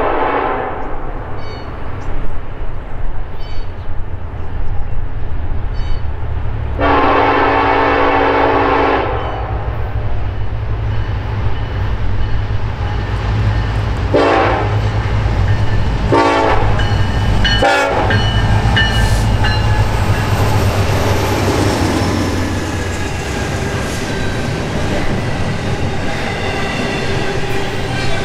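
Norfolk Southern EMD SD70ACE diesel locomotive approaching, sounding its multi-chime air horn: a long blast trailing off at the start, another long blast about seven seconds in, then three short blasts a few seconds later, over the steady rumble of its two-stroke EMD 710 diesel. In the last part the double-stack intermodal cars roll past with a rattling wheel clatter.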